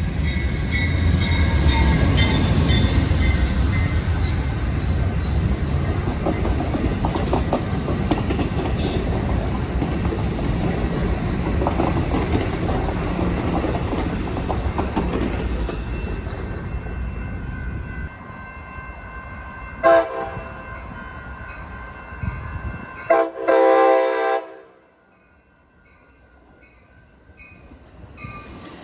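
Amtrak Pacific Surfliner passenger train rolling past, with steady wheel rumble and clickety-clack over rail joints that fades away. Then a train horn sounds a few short blasts, the last about a second long, and a second train's rumble begins to rise near the end.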